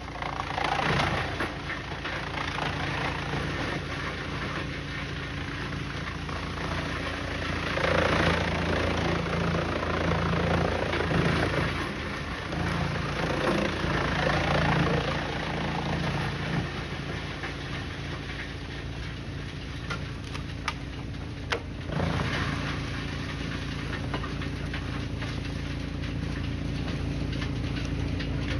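A heavy machine's engine running steadily, with louder, rougher stretches about a second in and again from about eight to sixteen seconds in, and a few sharp knocks near twenty seconds.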